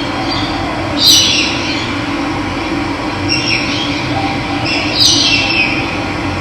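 Running water rushing steadily, with birds calling over it: two loud, sharp calls that sweep down in pitch, about a second in and about five seconds in, and a fainter call between them.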